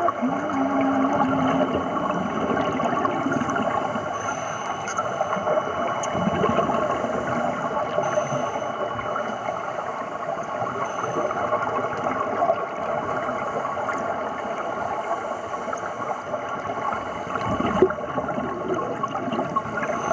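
Underwater bubbling and gurgling from divers breathing through scuba regulators, heard steadily throughout, with a brief wavering hum right at the start.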